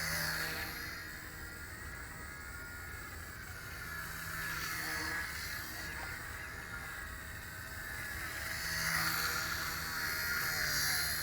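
Wltoys V977 micro RC helicopter in flight: the high whine of its brushless motor and spinning rotor, swelling and fading a few times.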